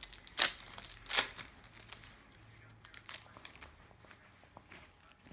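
A trading card packet being torn open: two short, sharp rips within the first second and a half, then faint rustling and small clicks of the packet and cards being handled.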